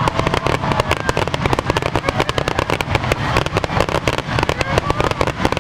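Fireworks crackling densely: a rapid, irregular stream of many small sharp pops a second, over a steady low rumble.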